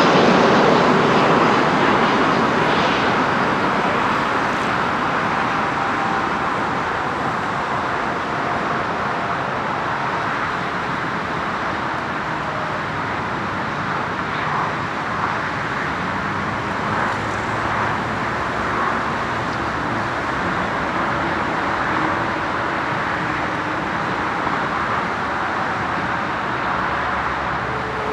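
Steady broad roar of a jet airliner receding, easing off over the first few seconds and then holding level as it blends with the hum of road traffic.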